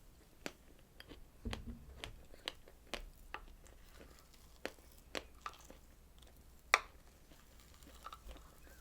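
Close-miked eating of strawberry desserts: chewing and biting heard as a run of short, sharp mouth clicks at irregular intervals, one noticeably louder about two-thirds of the way through.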